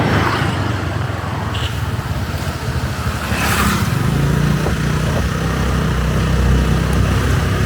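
Motorbike engine running while riding, with road and wind noise; the engine note grows stronger about four seconds in. A short whoosh passes about three and a half seconds in.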